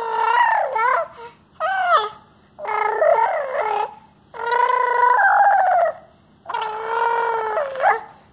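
Baby making long, high-pitched cry-like sounds: about five drawn-out calls with short pauses between, some held on one note and some sliding up and down.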